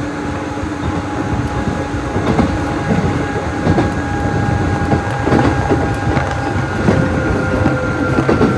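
Nishitetsu 600 series train running, heard from aboard, with a continuous rumble and clicks of the wheels over the rail joints. Steady whining tones run through it, and the highest one slowly drops in pitch toward the end.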